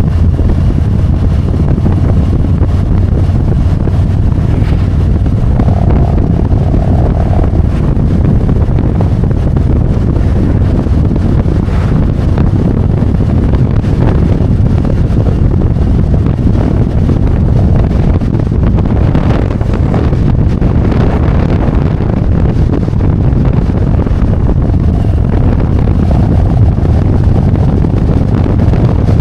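Harley-Davidson Road Glide's V-twin engine running steadily under way, with heavy wind noise on the microphone.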